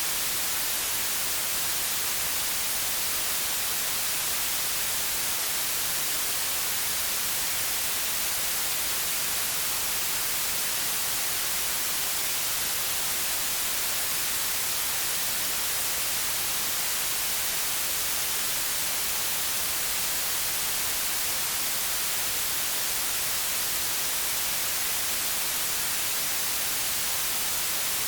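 Steady white noise: an even hiss, strongest in the high frequencies, with no change in level.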